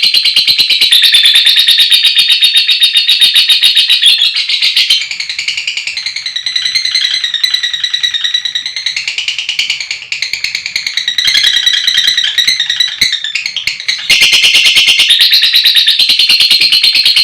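Lovebird chattering in long, very rapid, high-pitched trills: the prized continuous 'ngekek panjang' song. About five seconds in it breaks into quieter, more varied chirps, and the loud rapid trill resumes about fourteen seconds in.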